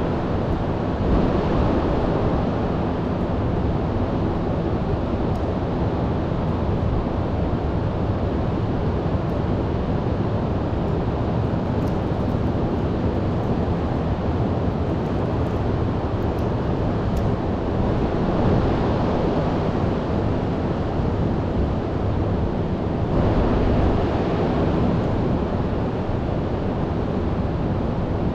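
Heavy storm surf breaking and washing ashore, a continuous rushing roar that swells louder a few times, with wind rumbling on the microphone.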